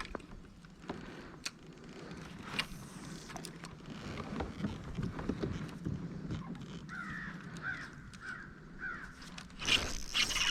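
A bird, crow-like, calling about five times in quick succession a few seconds before the end, over scattered small knocks and clicks. Near the end comes a loud rush of splashing water.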